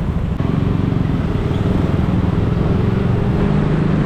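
Motorbike engine running under way in traffic, with wind and road noise; the engine note steps up about half a second in and then holds steady.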